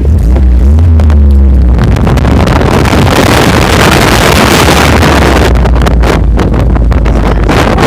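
Off-road vehicle engine running under loud wind buffeting on the microphone. The engine's pitch wavers up and down in the first two seconds.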